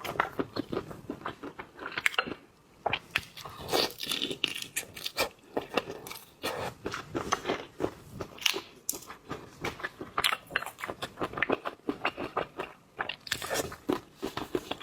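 Close-miked mukbang eating of seafood: irregular crunching bites and chewing, with many sharp wet clicks and crackles.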